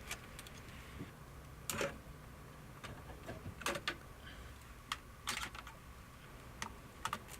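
Irregular sharp plastic clicks and light rattles, a second or two apart, from electrical connectors and the antenna plug being worked loose from the back of a truck's radio and HVAC control assembly.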